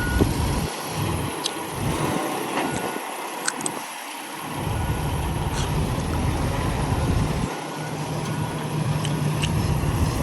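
A tractor-trailer's diesel engine running as the truck is backed slowly, a low rumble that drops away a few times and comes back.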